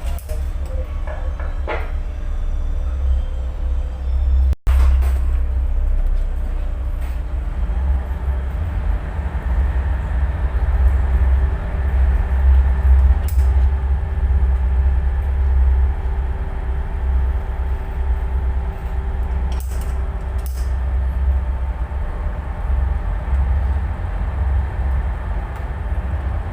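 Tugboat engine running steadily: a heavy low rumble with faint steady hum tones above it.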